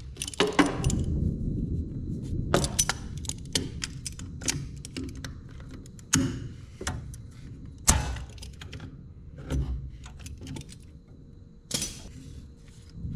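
Irregular metallic clicks, clinks and knocks of hand tools working on the machine, with a few louder strikes.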